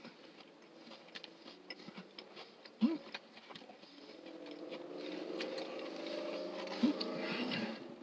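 A person chewing a mouthful of burger with closed-mouth smacks and small clicks, with a short hum about three seconds in. From about four seconds a steady low drone comes in under the chewing.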